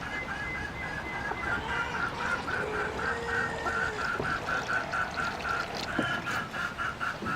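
Domestic poultry calling: a long run of short, evenly repeated calls, a few a second.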